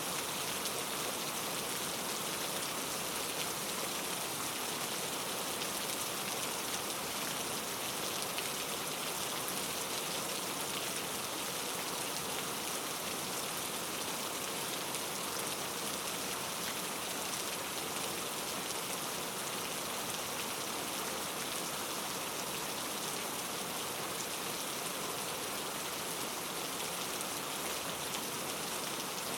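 Steady rain falling, a constant even hiss with the fine patter of many drops.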